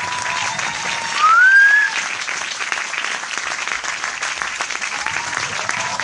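Crowd applauding, dense and steady clapping. About a second in, one loud rising whistle cuts through it.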